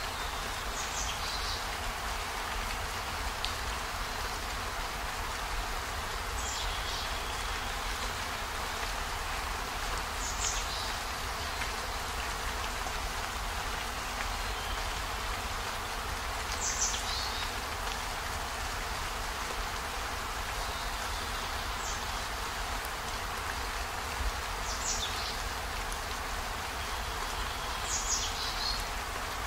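Steady heavy rain, an even hiss, with short high-pitched sounds falling in pitch every few seconds over it.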